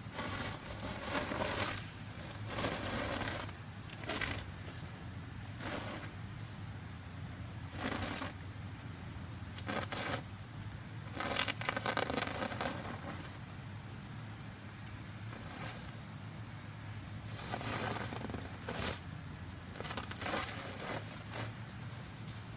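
Irregular scraping and crunching, about a dozen short bursts of varying length, over a steady low hum.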